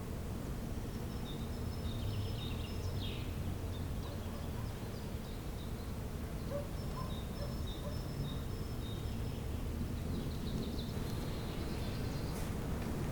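Faint songbirds chirping and calling now and then, over a steady low background rumble.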